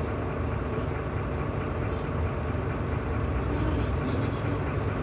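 Renault Agora S city bus running on the road, a steady low rumble as heard inside the passenger cabin.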